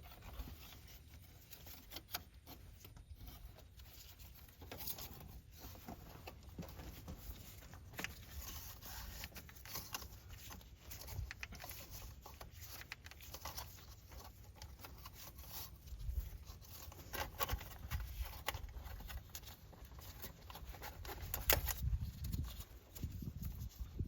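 Scattered faint clicks and scrapes of hand tools and metal handling as an oil filter wrench is worked on a Kubota tractor's spin-on oil filter to loosen it, over a low steady rumble.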